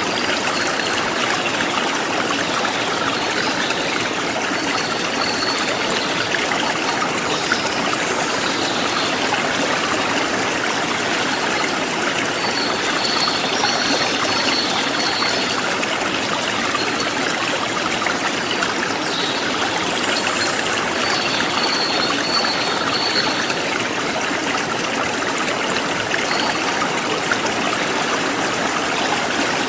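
Forest stream flowing steadily, a constant rush of water. Short, high bird chirps come in now and then over it, several times.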